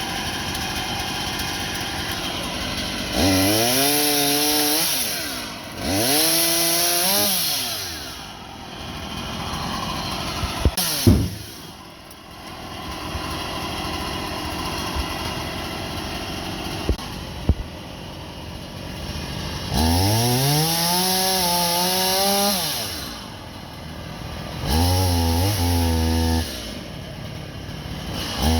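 Husqvarna 24-inch chainsaw revving up and cutting through a deadfall in five bursts, its pitch sagging under load, and dropping back to a lower running note between cuts. A few sharp knocks come in the pause about eleven seconds in and again around seventeen seconds.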